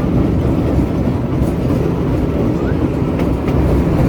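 The Tren de Sóller's vintage electric train running along the track: a steady low rumble of wheels on rails, with a few faint clicks.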